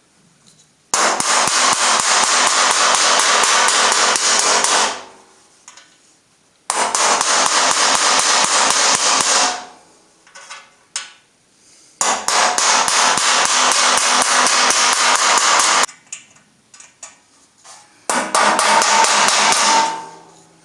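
A power tool with a rapid rattle of impacts runs on a damaged screw in four bursts of about three to four seconds each, each burst starting abruptly and dying away, with a few separate clicks between bursts.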